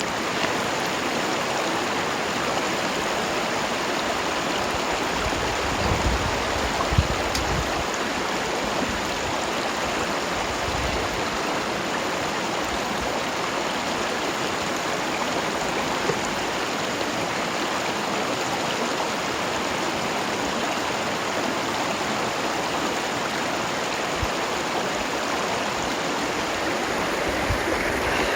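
Waterfall and mountain stream: a steady rush of running water.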